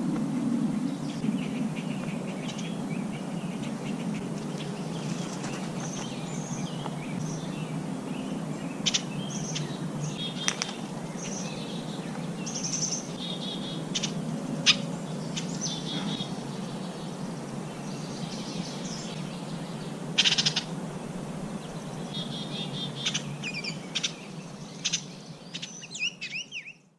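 Small birds chirping and calling: short high chirps and quick trills scattered throughout, with a burst of wavering chirps near the end, over a steady low background hum.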